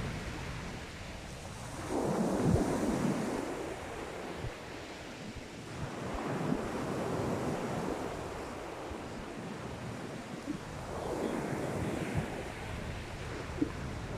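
Sea waves breaking on the beach and washing back, surging roughly every four to five seconds.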